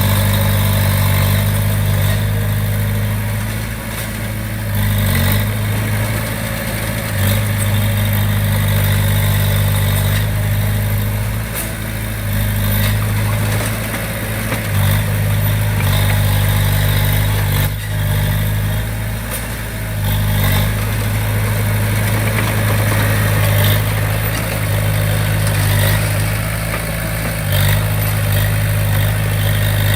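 Komatsu D20P bulldozer's diesel engine running steadily, its loudness easing and picking up a little every few seconds as it works.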